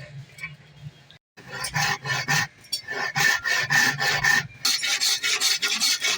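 Hand file rasping on metal in quick back-and-forth strokes, about three a second, with a ringing metallic tone over the scrape. A brief gap about a second in.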